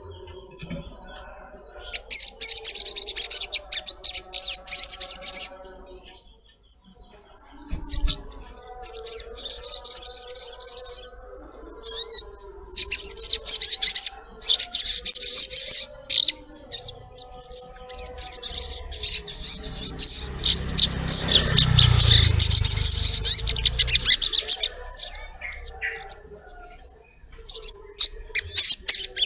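Sogok ontong (sogon), the little spiderhunter, chattering and chirping in rapid, high-pitched bouts a few seconds long, with short pauses between them. A low rumble runs under the song about two-thirds of the way through.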